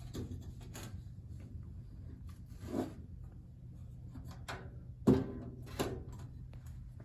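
A box fan being handled and turned over, its cabinet and guard rubbing and knocking, with a sharp knock about five seconds in, over a steady low hum.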